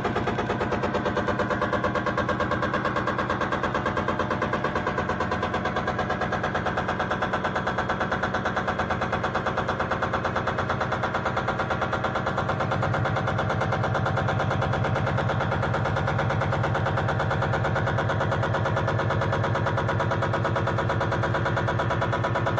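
Electronic drone generated from a line drawing: a buzzing tone made of rapid, even pulses with several steady pitches layered together. About halfway through, a deeper low tone grows stronger.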